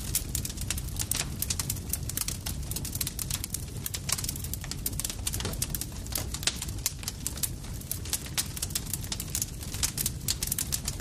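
Wood campfire crackling: many quick, irregular pops and snaps over a low, steady rumble of the burning fire.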